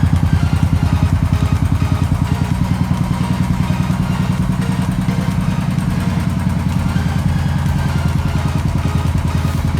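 Royal Enfield Bullet's single-cylinder engine running at idle, its exhaust beating in an even, rapid pulse.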